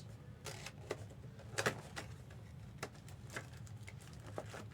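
Light, irregular clicks and rustles of trading-card packs and cards being handled, over a low steady room hum.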